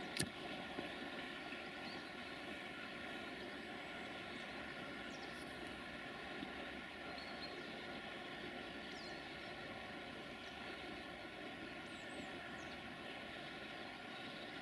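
Distant electric locomotive approaching on the main line, heard as a steady low rumble with a faint hum. A sharp click comes just after the start, and a few faint bird chirps come through later.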